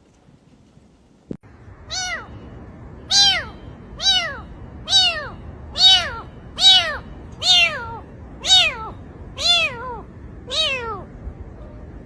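A cat meowing over and over, about ten meows at roughly one a second, each call rising then falling in pitch.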